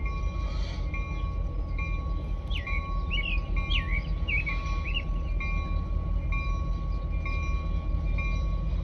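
Low, steady rumble of a slow-moving train as the towed Norfolk & Western 611 steam locomotive rolls past, with a bell dinging about once a second. A bird sings briefly a few seconds in.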